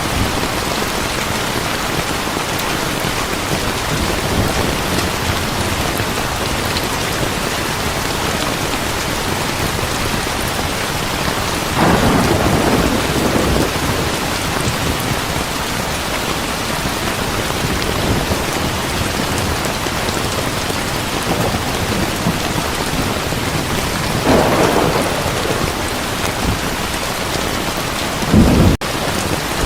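Heavy rain pouring steadily, with a roll of thunder about 12 seconds in, another about 24 seconds in, and a shorter, louder crack of thunder near the end.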